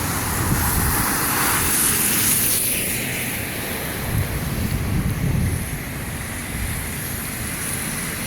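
Tyres hissing through water on a flooded, rain-soaked street, one swish swelling and fading in the first couple of seconds, with a low rumble of wind on the microphone.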